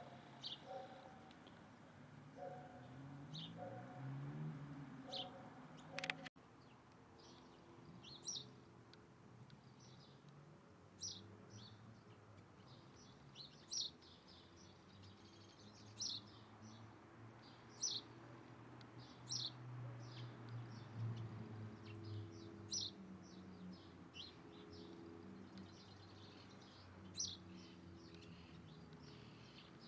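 Small bird giving short, high chirps, repeated every second or two, over a faint low hum. About six seconds in there is a sharp click and a momentary break in the sound.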